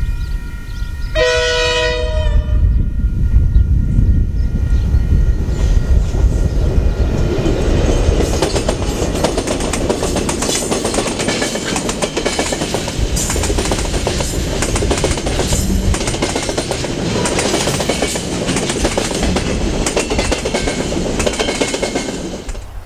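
KiwiRail freight train sounding its locomotive horn: a held chord that ends about a second in, then a short second blast. The wagons then rattle past with a steady wheel clatter that grows louder and cuts off near the end.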